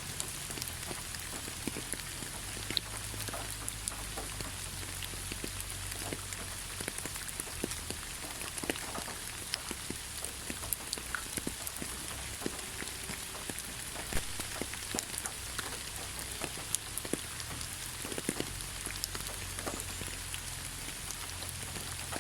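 Steady rain falling in a pine forest: an even hiss with many separate drops tapping close by.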